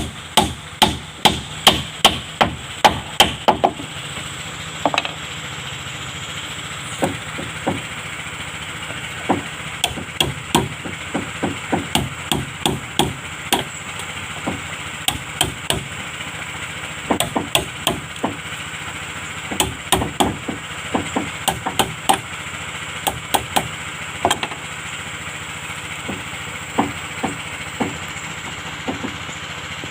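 Hammer striking wood on a wooden boat being built: a quick, even run of blows, about three a second, for the first few seconds, then irregular blows and lighter taps. A steady hum runs underneath.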